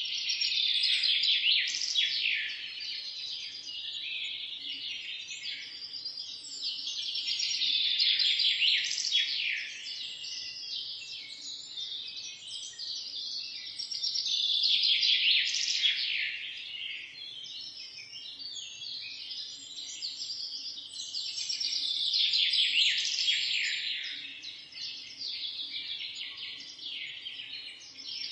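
Many small birds chirping together in a dense chorus of high, rapid chirps, swelling louder and fading back every several seconds.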